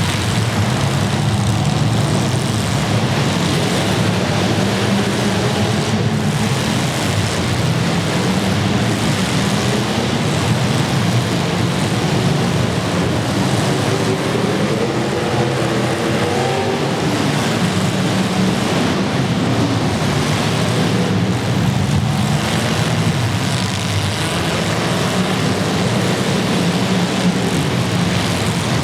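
Demolition derby cars' engines running loudly, several at once, their pitch rising and falling as they rev.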